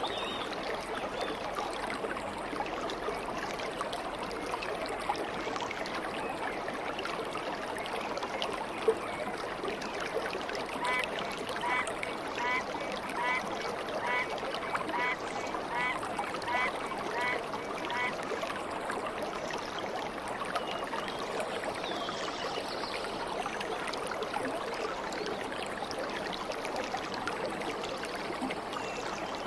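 Steady rushing and trickling of a flowing stream. About eleven seconds in, a bird calls a run of evenly spaced notes, roughly two a second, for about seven seconds, and there is a single sharp tick near nine seconds.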